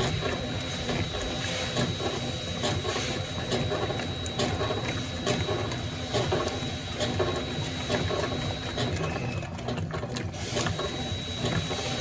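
Consul Facilite 11.5 kg top-loading washing machine agitating a load of cloths at a low water level: a steady mechanical churning of the agitator drive with water and fabric sloshing, and small clicks throughout.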